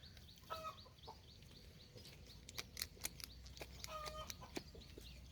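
Faint clucking of a domestic hen: two short calls, about half a second in and again around four seconds, with scattered light clicks between them.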